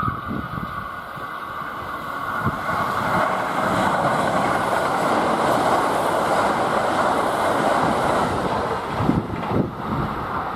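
Kintetsu limited express electric train passing straight through a station at speed. A rising rush of wheels on rail builds as it approaches and holds loud as the cars go by, then a few rail-joint clacks come near the end as the last cars pass.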